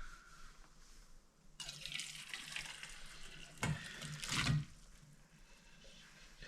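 Water running, like a tap, for about three seconds, starting suddenly about a second and a half in and cutting off, with a couple of louder splashes or knocks near the end of the run.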